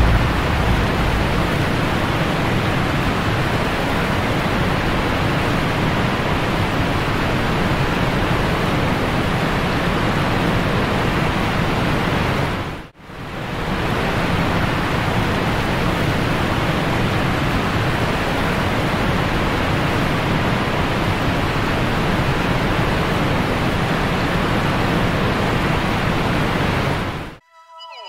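A steady rushing noise, like running water or wind on the microphone. It breaks off briefly about halfway through, comes back the same, and cuts off just before the end.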